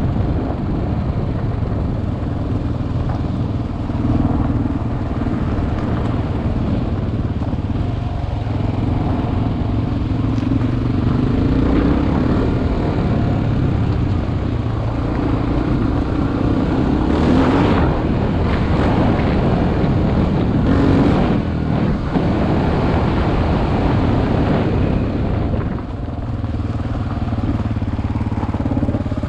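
Single-cylinder dual-sport motorcycle engine running on an off-road ride, its pitch rising and falling with the throttle, heard from a helmet-mounted camera. A few short noisy bursts come about two-thirds of the way through.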